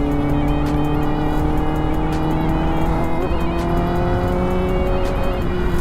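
Kawasaki ZX-10R's inline-four engine running steadily under light throttle, its pitch rising slowly as the bike gains speed, over a steady rush of wind.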